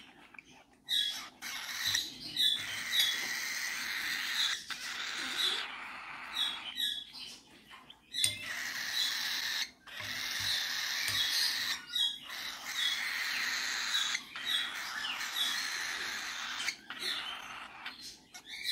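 Hand-raised baby bird begging while being fed: high, hissing begging calls with short cheeps, in runs of a few seconds broken by brief pauses.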